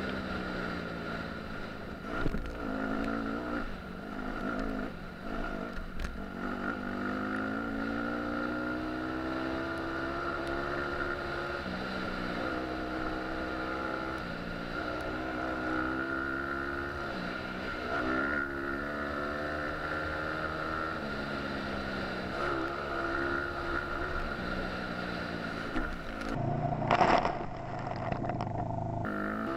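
Dirt bike engine revving up and down while riding, its pitch repeatedly climbing and dropping as it shifts through the gears, with a steady high whine over it. A brief louder burst of noise near the end.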